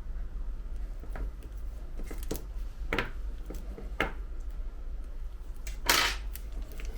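A few short scrapes and clicks of a small hand tool against an iPhone 11 Pro Max's frame while the old adhesive seal is cleaned off, with a longer, louder scrape about six seconds in.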